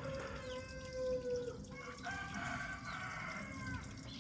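A rooster crowing twice, each call long and held for about a second and a half, with faint water dripping underneath.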